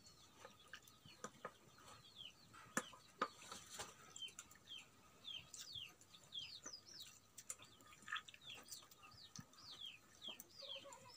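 Faint bird chirping: many short, high notes, each sliding downward, repeating every half second or so, with a few faint clicks among them.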